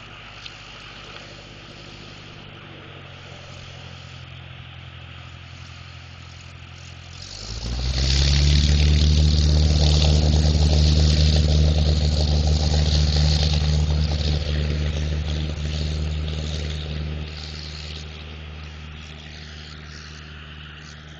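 Cessna light aircraft's piston engine going to full takeoff power: a steady engine sound rises sharply about seven seconds in, stays loud and even for several seconds, then slowly fades as the plane draws away.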